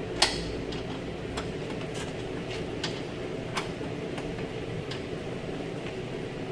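About half a dozen sharp clicks and taps at uneven intervals, the first about a quarter second in the loudest, over a steady low mechanical hum.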